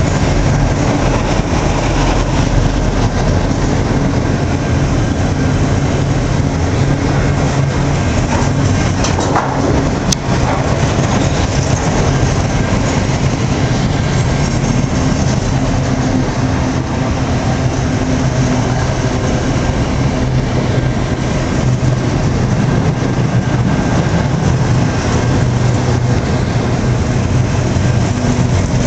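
Enclosed autorack freight cars rolling past close to the track: a loud, steady noise of steel wheels running on the rails, with one sharp click about ten seconds in.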